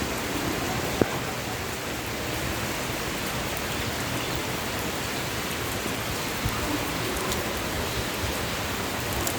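Steady rain falling, an even hiss of rain with one sharp drip or tap about a second in.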